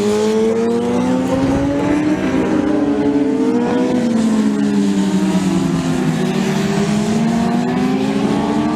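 Racing motorcycle engines running hard, more than one at once, their pitches climbing and falling and crossing each other as the revs change.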